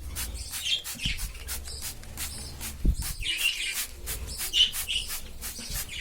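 Budgerigars chirping in a colony cage, with rapid short hissing puffs from a hand spray bottle being pumped over and over.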